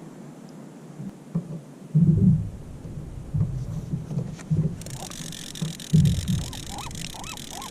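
Low, irregular thumps and buffeting on the microphone, loudest about two seconds in and again near six seconds. From about two-thirds of the way in, a flock of birds gives a quick run of short, arched, honking calls.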